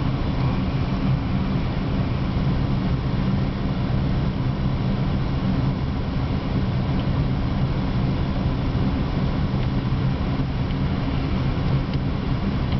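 Steady low engine hum with road-vehicle noise, heard from inside the cabin of a parked Pontiac that is running.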